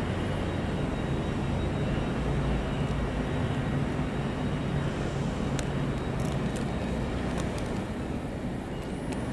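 Train engine running steadily as a low, even hum with rumble. A few faint ticks come in the second half, and a short high squeak comes near the end.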